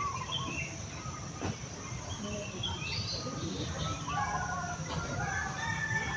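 Several birds chirping and calling, short varied chirps overlapping one another, over a steady high-pitched hiss and a low rumble. About five seconds in, a long steady whistle-like tone begins.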